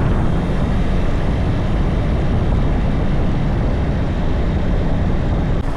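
Wuyang-Honda 190 motorcycle on the move: a steady, loud rush of wind and road noise over the running engine.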